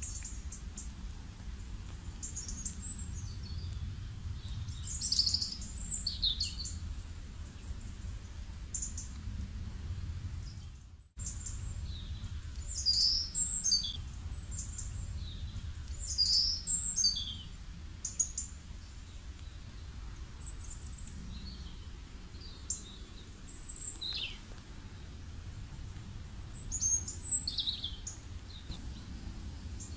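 Birds chirping in short, high, falling calls every second or two over a steady low rumble. The sound cuts out briefly about eleven seconds in.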